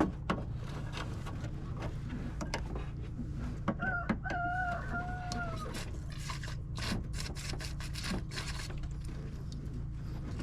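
A rooster crowing once, about four seconds in, a single call lasting under two seconds that drops in pitch at the end. A steady low hum and scattered small clicks run underneath.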